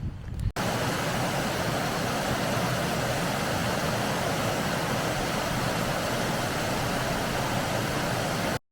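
Waterfall: a steady rush of falling water, starting abruptly about half a second in and cutting off just before the end.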